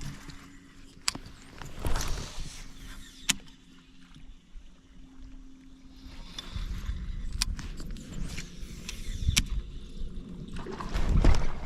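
Water splashing and trickling around a fishing kayak, with several sharp knocks and clicks of gear being handled in the boat and a louder rustle near the end.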